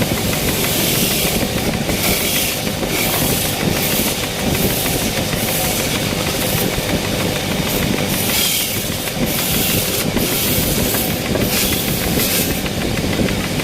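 A wood lathe running, with a tool cutting the spinning wood in repeated short passes: a steady machine noise with a hissing rasp each time the cut bites.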